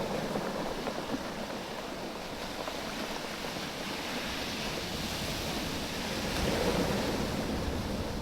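Waves washing up and draining back over a beach of rounded oval stones, the stones clattering and clicking against each other as the water moves them. The surge swells louder about six seconds in.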